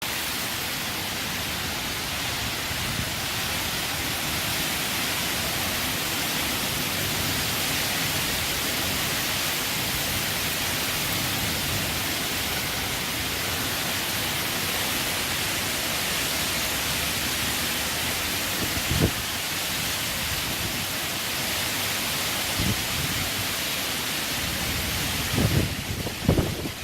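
Heavy rain falling in strong wind: a steady, loud hiss over a fluctuating low rumble. A few short low thumps come partway through and several more near the end.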